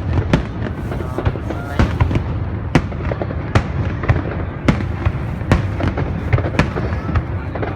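Aerial fireworks going off: a rapid, irregular series of sharp bangs, several a second, over a continuous low rumble of further bursts.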